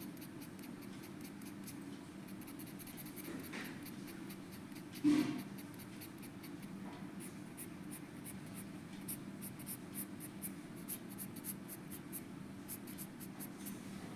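A drawing tool scratching across paper in quick, repeated strokes, more frequent in the second half, with one louder knock about five seconds in, over a steady low hum.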